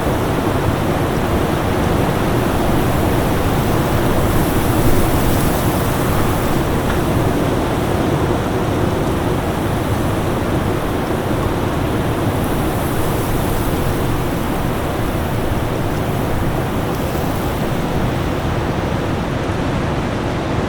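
Winter storm ambience: a steady rush of strong wind, with gusts swelling brighter about four seconds in and again about twelve seconds in.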